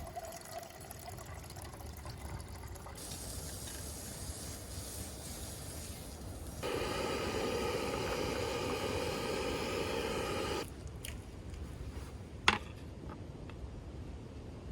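Liquid being poured into a container, a steady pour of about four seconds that starts and stops abruptly, over a low background hiss. A single sharp click follows near the end.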